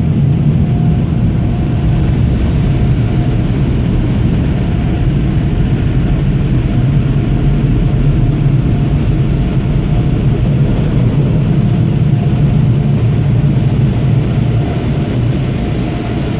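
Car wash tunnel machinery running loud and steady with a deep rumble, heard from inside a minivan. The four-way flashers' relay ticks faintly and evenly throughout.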